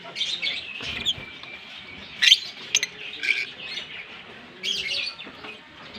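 A pair of green Fischer's lovebirds chirping and twittering, with a few sharp, loud chirps standing out about two seconds in.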